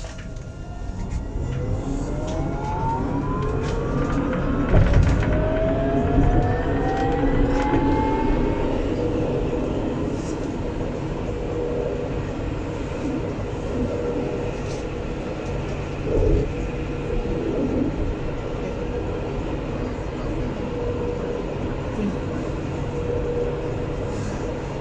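Alstom Citadis 402 tram pulling away and accelerating: the traction motors' whine rises in pitch over the first several seconds, then gives way to steady running noise of wheels on rails, with a couple of short knocks from the track.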